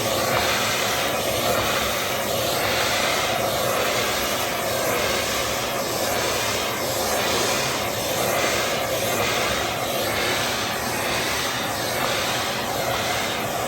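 AGARO ICON 1600 W bagless canister vacuum cleaner running steadily, a loud even whoosh of motor and suction with a slight regular waver.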